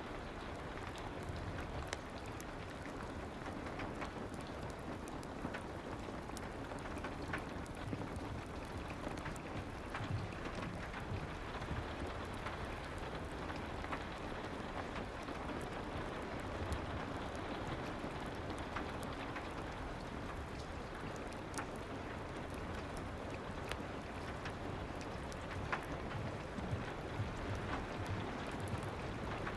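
Steady soft rain ambience, an even hiss with scattered faint clicks of drops throughout.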